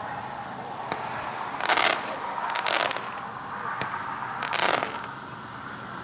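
Red, White and Blue Bombs 200-gram fireworks cake firing, heard from far off: three short noisy bursts about a second apart, with a few sharp cracks between them.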